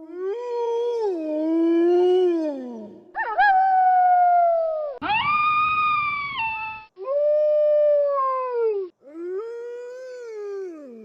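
Wolves howling: about five long howls one after another, each rising and then sliding down in pitch, with abrupt cuts between them as if separate recordings were spliced together.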